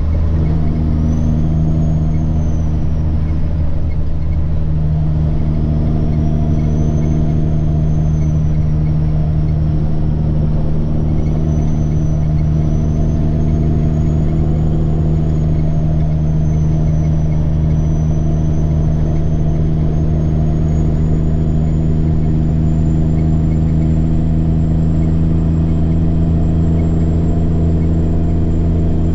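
Semi truck's diesel engine running steadily on the road, with a high turbocharger whine over the low drone. The whine wavers up and down, then climbs slightly and holds higher through the second half.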